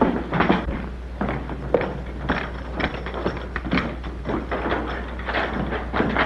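Irregular knocks and thumps, several a second, over a steady low hum from the old film soundtrack.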